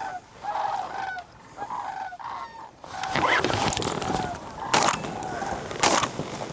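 Duck quacks, short and repeated, growing busier about halfway through. Near the end come two shotgun shots about a second apart, fired at a small flock of mallards.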